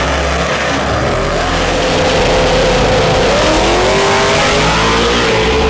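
A vehicle engine running loudly, its pitch falling and rising again in the second half as it is revved.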